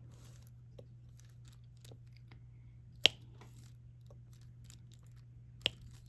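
Diamond painting work: faint ticking of the drill pen picking up resin drills and pressing them onto the canvas, with two sharp clicks about three seconds in and near the end, over a steady low hum.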